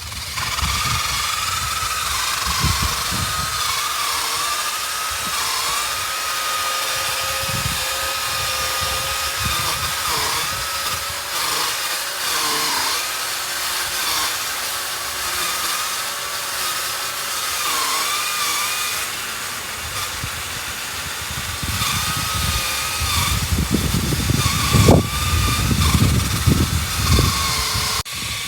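Pole-mounted chainsaw running at high speed, its whine dipping in pitch again and again as the chain bites into tree branches. Gusts of wind rumble on the microphone, heaviest near the end.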